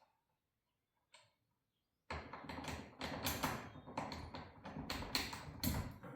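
Metal garage door hardware clattering and scraping, a dense run of clicks and rattles starting about two seconds in.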